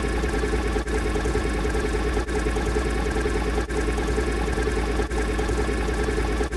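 A steady engine-like drone, repeated as a loop with a brief break about every one and a half seconds.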